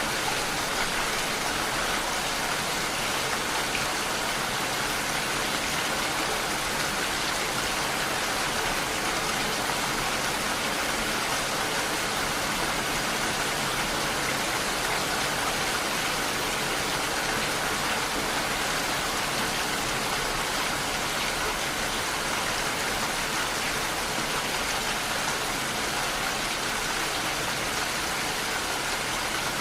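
Steady rain falling, an even hiss with no thunder and no change in strength.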